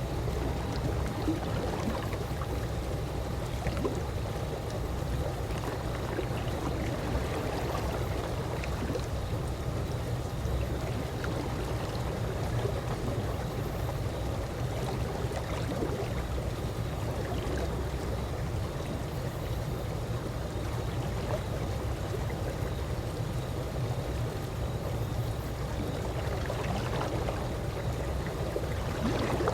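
Calm swimming-pool water moving and trickling steadily, with a constant low rumble underneath.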